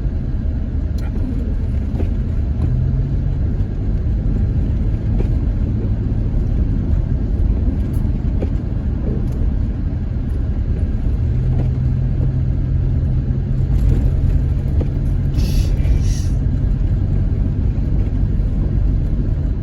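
Van driving slowly, heard from inside the cab: a steady engine and road rumble with a low engine hum that comes and goes, and two short hisses about fifteen seconds in.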